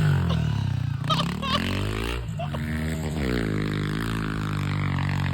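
A 110cc pit bike's small single-cylinder engine revving up and down, its pitch dropping and climbing several times as the bike is ridden over the dirt.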